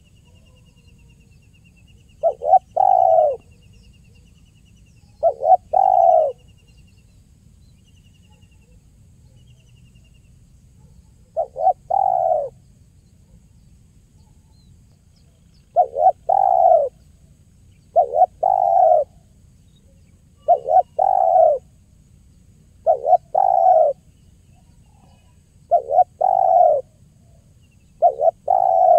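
Spotted dove (tekukur) cooing: a short phrase of a couple of quick notes and a longer coo, repeated about every two to three seconds, ten times.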